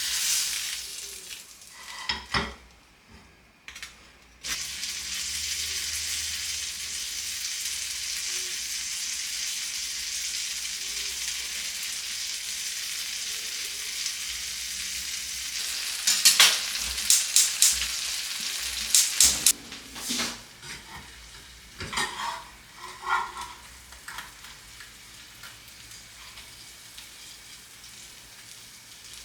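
Food sizzling in a hot pan: a steady sizzle that starts suddenly a few seconds in and dies away about two-thirds of the way through. Near its end comes a run of sharp clicks and knocks of a utensil against cookware, and a few more follow.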